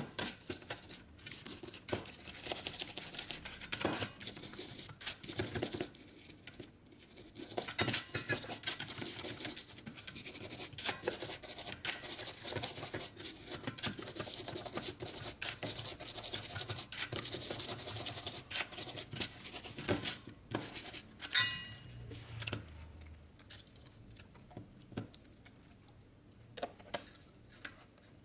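A brush scrubbing small metal carburetor parts, a busy scratchy rubbing broken by light metal clinks. It stops about three quarters of the way through, leaving a few quieter clicks and knocks.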